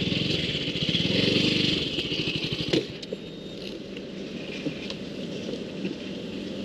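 Motorcycle engine running at low revs with an even pulse, which stops with a click about three seconds in, leaving a quieter background with a few light ticks.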